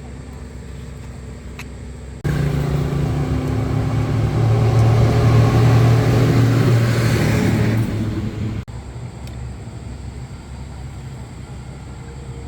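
A motor runs loudly for about six seconds, starting abruptly and cutting off suddenly, over a steady low hum.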